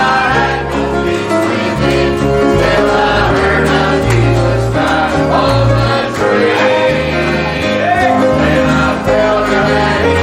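Gospel song with several voices singing together over acoustic guitar and a walking bass line, in a bluegrass style.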